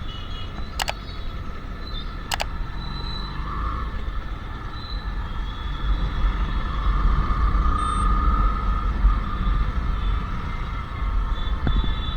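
Royal Enfield Classic 350's single-cylinder engine running while the motorcycle is under way, a steady low rumble mixed with wind and road noise, getting somewhat louder from about halfway. Two sharp clicks sound near the start.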